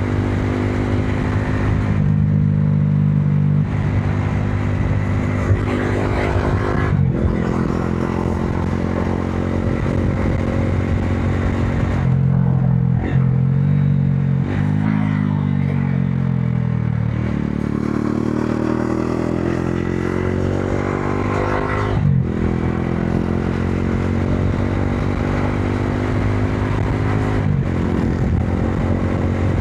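Modenas Dominar 400's single-cylinder engine running under way, with brief breaks for several gear changes and the pitch climbing steadily as the bike accelerates in the middle stretch.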